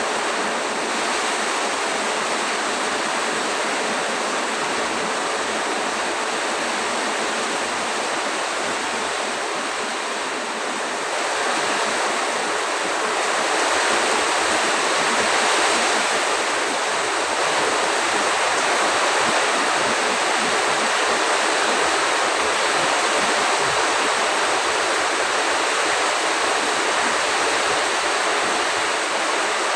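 Heavy storm downpour with wind: a steady, loud rushing of rain that swells about a third of the way through and then holds.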